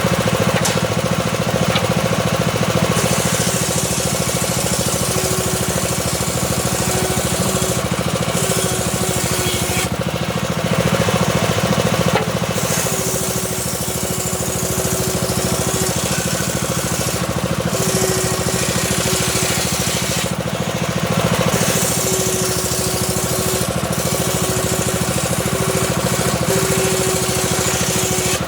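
Homemade circular saw running steadily while its blade slowly rips a small teak log. A high cutting hiss swells and eases every few seconds over the machine's constant low hum.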